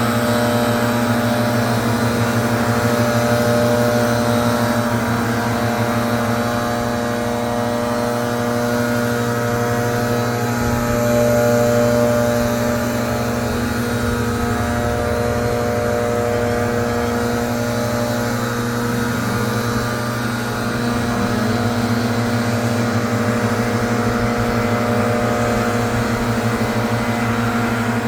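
Gas leaf blower engine running steadily at a constant pitch, blowing leaves out of river rock.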